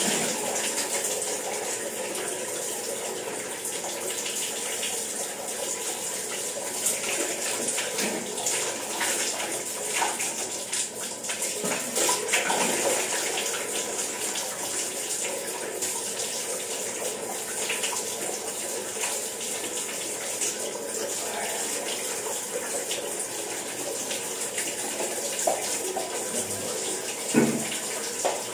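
Water running steadily from a tap, with irregular splashing as a person washes their face with it.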